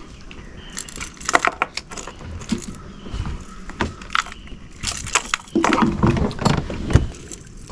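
Irregular knocks, clicks and rattles of fishing gear being handled in a kayak, busier and louder in the second half.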